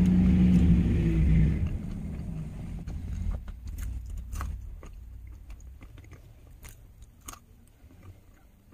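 Vehicle engine and road rumble, loud at first and dying away over the next few seconds, followed by faint scattered crunches of someone chewing a snack.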